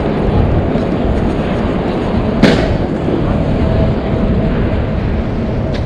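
Steady low rumble of wind and road noise while riding an e-bike, with one sharp crack about two and a half seconds in.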